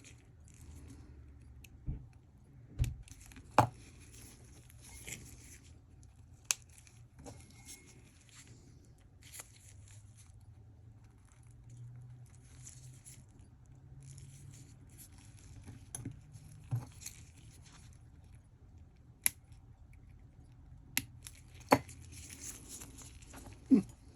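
Small sharp clicks, taps and scratching as an F91-style digital watch is handled and a strap pin is worked through the strap and lug holes. The clicks come irregularly, a dozen or so, over a faint scratchy rustle, with the loudest ones a few seconds in and again near the end.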